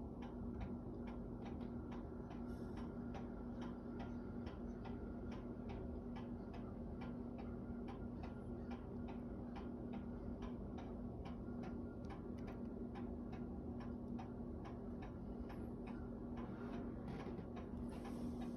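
Steady, regular ticking, about two to three ticks a second, over a steady low hum.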